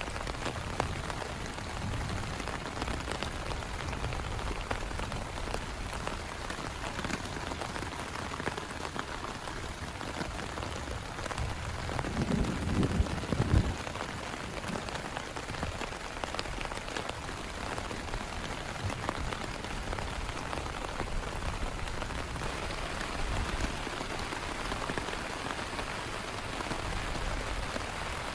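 Heavy rain falling steadily, a dense, even patter throughout. About twelve seconds in there is a brief, louder low rumble lasting a couple of seconds.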